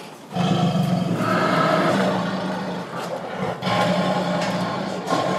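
Dinosaur roar and growl sound effects from CGI footage of Spinosaurus-like dinosaurs, coming in several long, rough stretches with short breaks between them.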